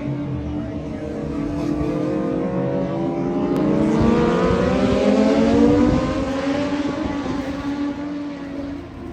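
Racing motorcycle engine accelerating past: its note climbs steadily in pitch, is loudest a little past halfway through, then fades as the bike moves away.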